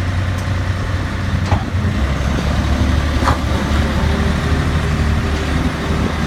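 Tourist road train's engine running with a steady low hum, its note dropping slightly about two seconds in.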